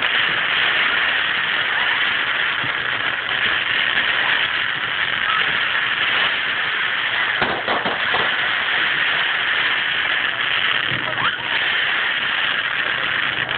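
Fireworks display with a continuous dense crackle and fizz, broken by a few louder bangs about halfway through and again near the end.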